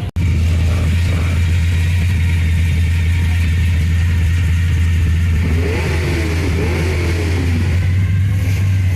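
Car engine running with a steady deep low rumble, after a brief gap at the very start.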